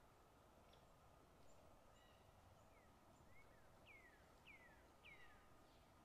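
Faint forest ambience with small bird calls: scattered short chirps, then three falling whistled notes about half a second apart in the second half, over a soft steady background hiss.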